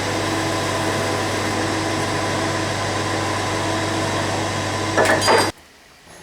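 A workshop power tool's electric motor running steadily with a constant hum. It is joined by a few scraping knocks about five seconds in, and then the sound cuts off suddenly.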